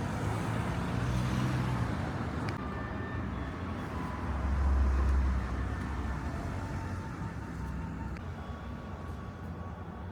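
Motor vehicle rumble, with a louder deep swell about halfway through and a couple of faint sharp cracks.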